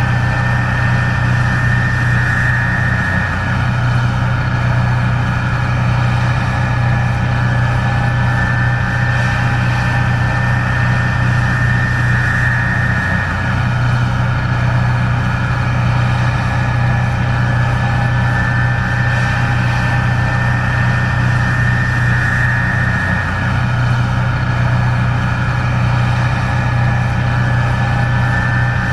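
Case IH 1660 Axial-Flow combine running steadily while harvesting corn: a loud, even engine drone with a high whine over it that swells gently about every ten seconds.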